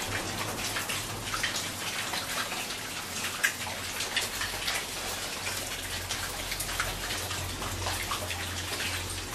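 Pigs eating pawpaw: a steady crackle of chewing and smacking, thick with small clicks, with one sharper click about three and a half seconds in.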